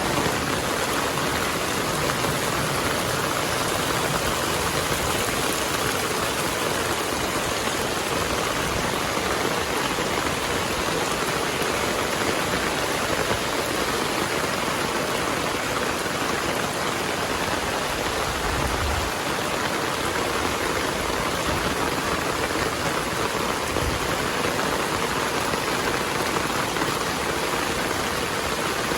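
Heavy rain falling steadily, a dense, even hiss of drops on surfaces with no letup.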